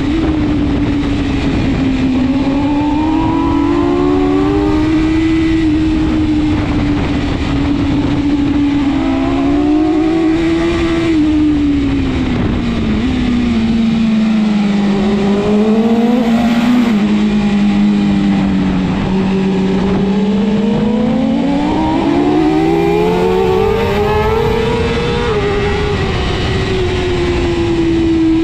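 BMW S1000RR superbike's inline-four engine running at racing speed, its pitch sinking and climbing again as the throttle is worked through the corners, with a constant rush of wind noise.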